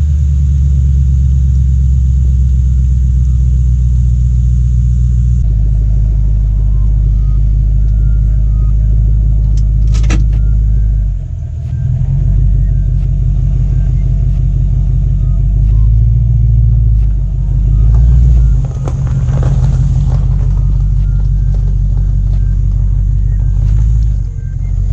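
Mercury Grand Marquis 4.6-litre V8 running with the exhaust removed from the catalytic converters back, a steady deep rumble from the open pipes. It eases briefly a few times and swells around sixteen to eighteen seconds in.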